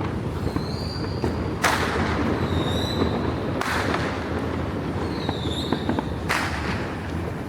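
Fireworks going off: three loud bangs a couple of seconds apart, each with a trailing crackle and echo and each preceded by a short high whistle. A steady low street rumble runs underneath.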